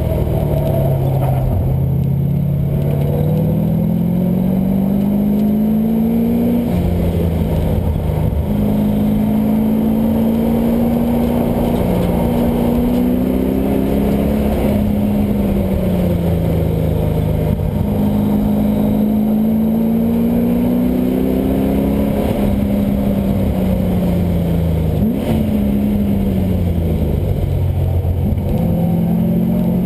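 LS1 V8 engine in a swapped Mazda Miata being driven hard on a race track. Its pitch climbs under acceleration, drops suddenly at upshifts and falls back when it slows, several times over.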